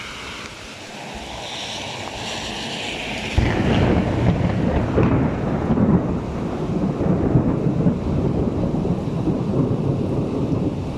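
Heavy rain falling, then about three seconds in a sudden clap of thunder that rolls on as a long, loud, low rumble.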